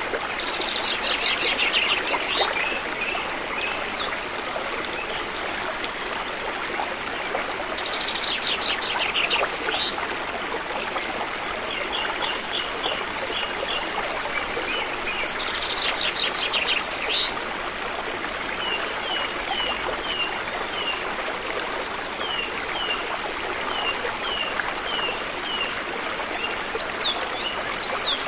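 River water flowing steadily, with songbirds singing over it. A fast trilled phrase of about two seconds comes at the start and again about every eight seconds, and between these come runs of short, evenly spaced chirps.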